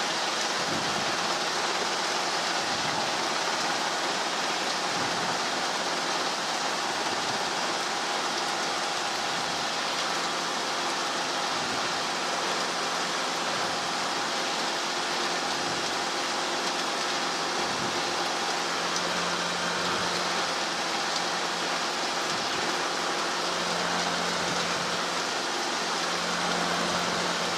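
Helicopter engine and rotor noise inside the cockpit during hover practice: a steady drone with an even hiss and faint constant tones.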